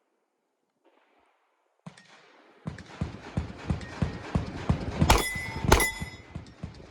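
Quick footsteps on a rough, gritty surface, about three steps a second, starting a couple of seconds in. Near the middle come two loud sharp impacts with a metallic ring.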